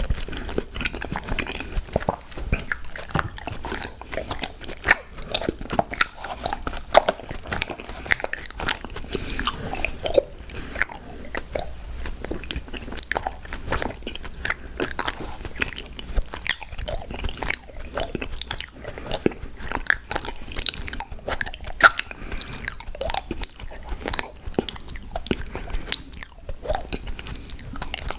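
Mouth sounds of someone eating crunchy cookies: bites and chewing, with a dense run of small, irregular crunching crackles.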